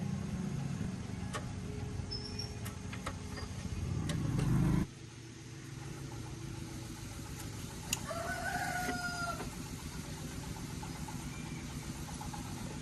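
A rooster crows once, about two-thirds of the way through, over the low rumble of a running engine. The rumble swells and then drops off suddenly about five seconds in. A few sharp clicks come in the first seconds.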